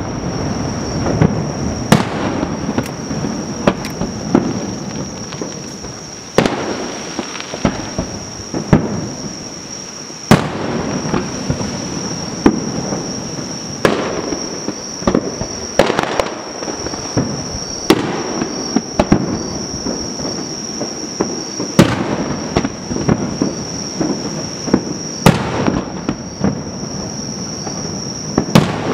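Aerial firework shells bursting: sharp booms every few seconds, each followed by a long rolling echo and crackle.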